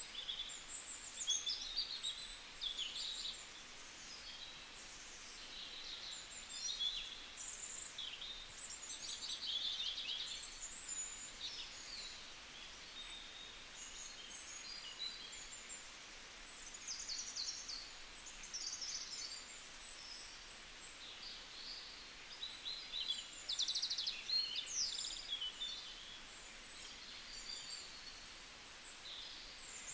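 Several small birds chirping and twittering in quick, overlapping calls and short trills.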